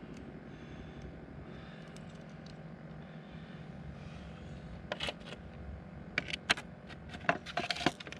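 Ice-fishing tip-up being handled and reset after rebaiting: a run of sharp clicks and light taps starting about five seconds in, over a low steady hum.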